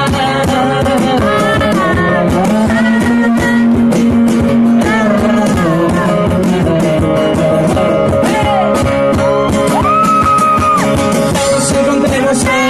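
Live band music: guitar with hand percussion keeping a steady beat, and a melody line that slides between long held notes.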